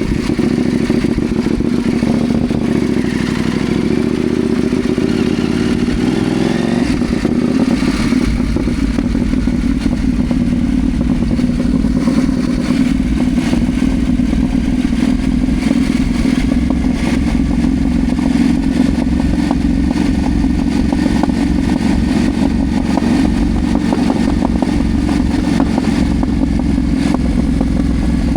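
Ibex 800 T motorcycle engine running steadily under way, heard from on board, with the engine note shifting about a quarter of the way through.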